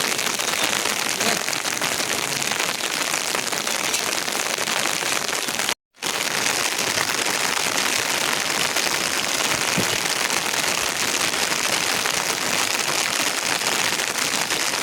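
Heavy rain falling: a steady hiss of many dense drops, broken once by a brief silence about six seconds in.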